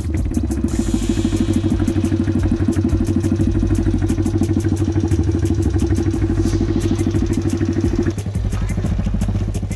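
Small pit bike engine running at a steady, fairly high speed, then easing off about eight seconds in.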